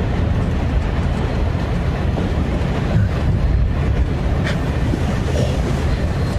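A steady low rumble of noise that stays level throughout, with no clear rhythm or tone.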